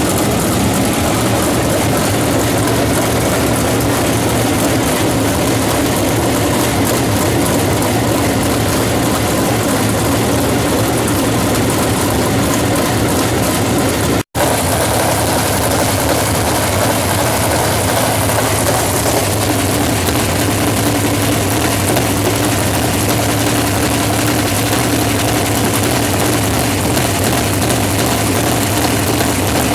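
USAC race cars' engines running loudly and continuously on the track during a race, with a momentary break about fourteen seconds in.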